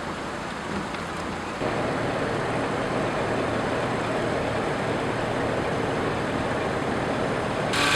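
Saab 900 Turbo S with the 2.0-litre turbocharged 16-valve engine driving, its engine and road noise heard steadily, growing louder about a second and a half in. A brighter hiss comes in right at the end.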